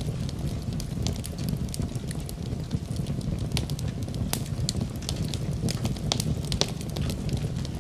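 Wood fire burning in a fireplace: a steady low rumble of flames with frequent sharp, irregular crackles and pops of burning wood.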